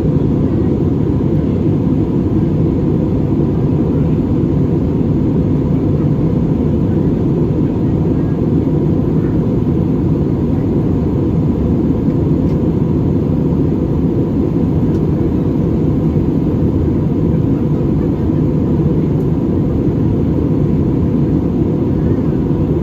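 Airbus A320-200 cabin noise in flight: a steady low rumble of engines and rushing air, with a faint constant tone above it.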